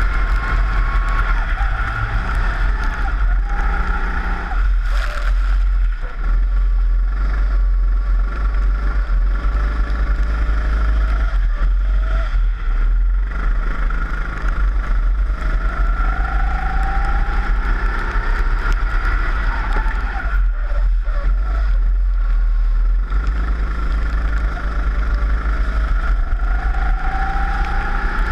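Four-stroke rental kart engine heard onboard, its pitch rising as it accelerates and dropping away several times as the throttle is lifted, over a constant low rumble.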